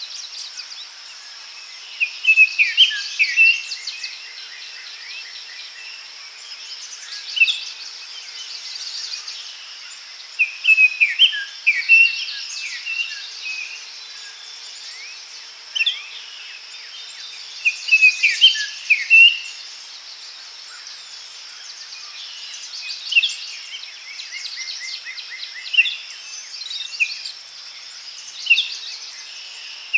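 Several songbirds singing in a forest, short whistled and trilled phrases coming every few seconds over a steady high insect-like hiss.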